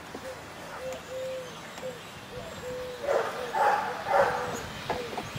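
A dog barking three times in quick succession about three seconds in, over a steady series of short, low, repeated calls.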